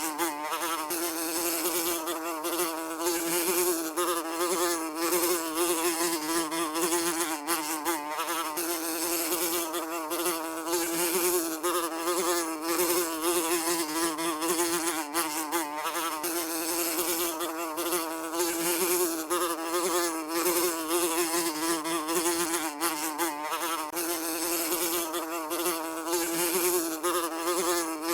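A fly buzzing continuously, its wingbeat hum holding a steady pitch that wavers slightly as it flies about.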